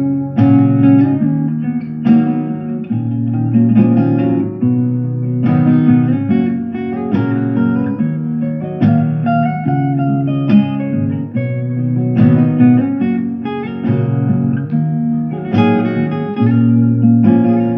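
Instrumental guitar passage of a song without singing: plucked guitar notes and chords over steady bass notes, the chords changing every second or two.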